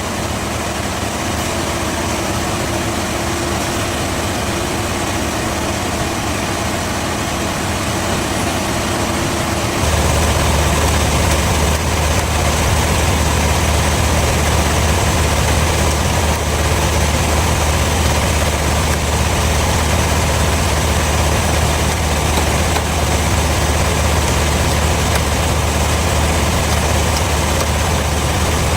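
Bandsaw sawmill machinery running with a steady, low hum. About ten seconds in it steps up louder and then holds steady.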